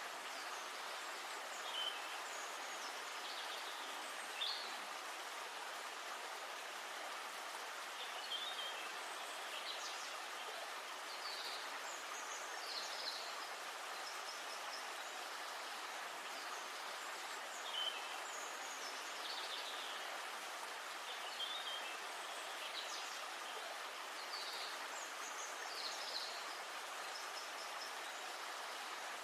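Steady rush of flowing river water, with small birds singing short chirping phrases every few seconds over it.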